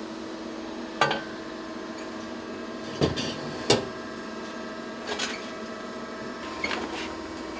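A handful of sharp, separate metal clinks and knocks from tools and parts being handled, over a steady electrical hum.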